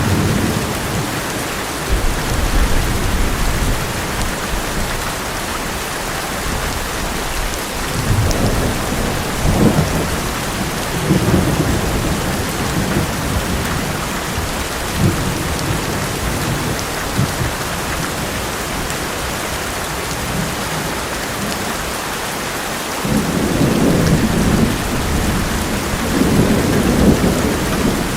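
Heavy rain drumming steadily on an old metal roof, with thunder rumbling in several rolls, the heaviest near the end.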